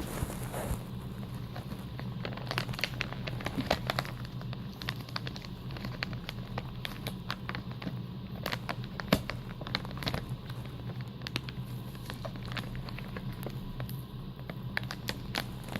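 Fingers picking and peeling at a sticker seal on packaging, with many small irregular clicks and crinkles, over a steady low hum.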